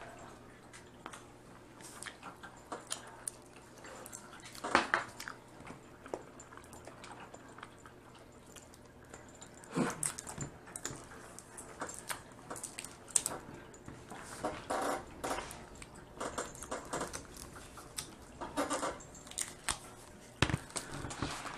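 Close-up eating of Dungeness crab: scattered cracks and clicks of shell being broken and picked at, with brief bursts of chewing and sucking sounds.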